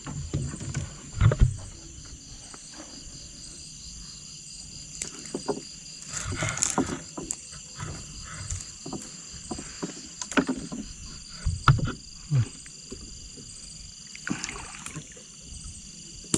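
Water splashing and paddling around a small boat, with scattered knocks against the hull. Over it runs a steady high chorus of night insects.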